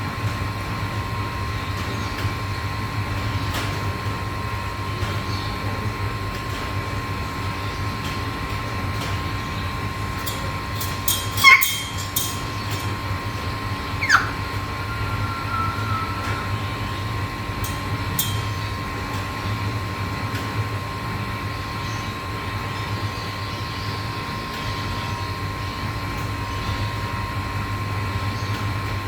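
Black-capped lory giving two short sharp calls near the middle, the second a falling whistle that holds a steady note for about two seconds, over a steady low hum with a constant thin whine.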